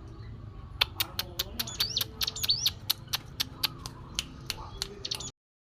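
Ciblek gunung, a prinia, giving a rapid run of sharp 'cetrek' clicking calls, about five a second, with a few short whistled notes mixed in around two seconds in. The sound cuts off suddenly about five seconds in.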